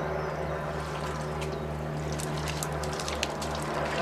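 Water trickling and splashing with many small drips, over the steady low hum of a pond pump that pulses about three times a second.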